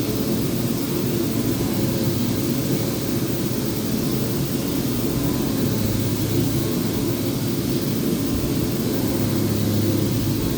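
Power sander running steadily on a wooden top, an even drone with a hiss over it.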